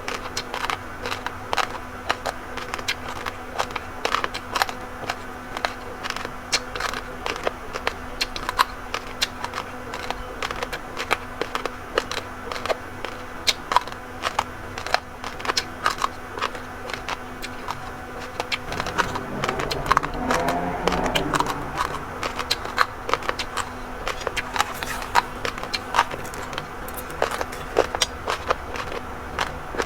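Close-miked chewing of raw, uncooked rice: a dense, irregular crackle of hard grains cracking between the teeth. A faint steady hum underneath stops about two-thirds of the way through, where a brief pitched sound rises and falls.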